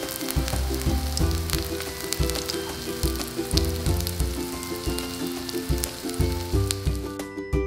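Green onion pancake (daepa-jeon) sizzling and crackling in hot oil in a frying pan, with a light ukulele tune underneath. The sizzle stops near the end, leaving only the music.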